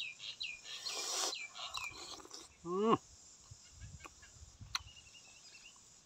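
A bird calls a quick run of short falling chirps over the first two seconds. Then comes a man's short rising hum, followed by soft chewing and a few light clicks of a spoon on a metal plate.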